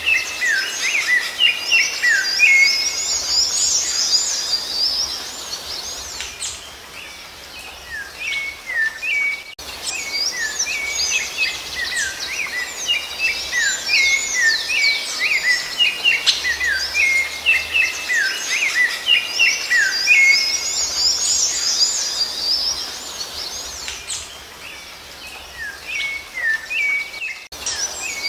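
Rufous-bellied thrush (sabiá-laranjeira) singing: dense, fast runs of short whistled notes in two long bouts, each easing off for a few seconds before it starts again.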